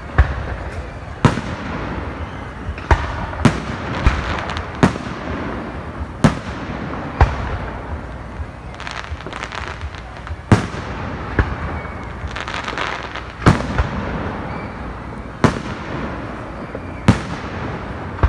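Aerial fireworks shells bursting in a display: about a dozen sharp booms spread irregularly, mostly one to two seconds apart, over a steady background hubbub.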